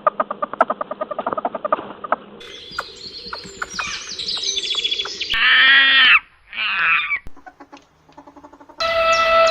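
Different animal calls one after another: a rapid pulsing call for about two seconds, then birds chirping and calling, then after a short lull a pig squealing near the end.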